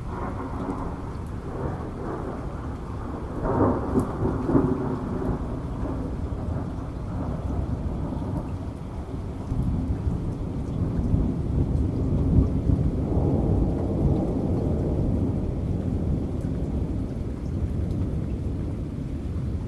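Rain falling during a thunderstorm, with thunder rumbling low and continuously. The thunder surges into a louder crackling peal about three and a half seconds in and swells again around the middle.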